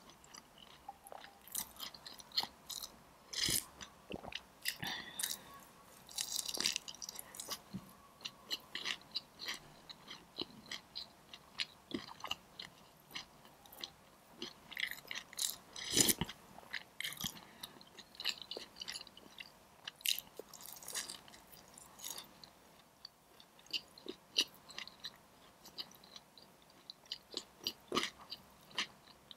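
Close-miked chewing of crispy Korean fried chicken: a steady run of small crunches and wet mouth clicks, with the loudest crunch about halfway through.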